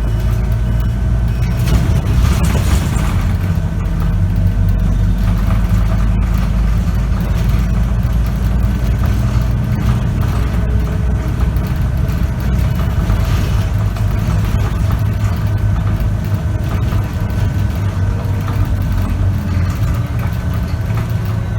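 Scania K94UB bus's diesel engine and ZF automatic gearbox running under way, heard from inside the cabin: a steady deep drone with a faint steady whine above it. There is a brief rush of noise about two seconds in.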